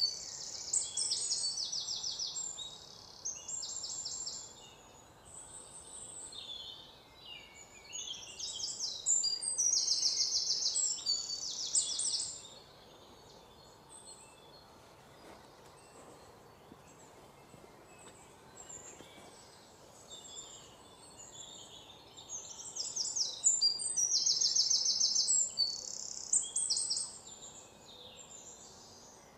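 Birdsong: spells of high, rapid trills and chirps, busy through the first half, thinning out in the middle, then another spell of trilling near the end, over a faint steady background hiss.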